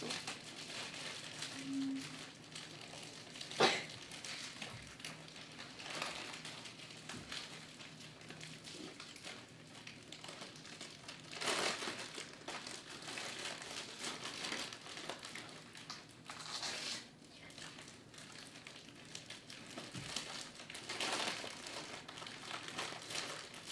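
Crinkling and rustling of packaging being handled, in uneven bursts, with a sharp crackle a few seconds in.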